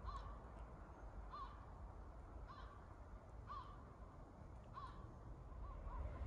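A distant bird calling over and over, a short rising-and-falling call about once a second.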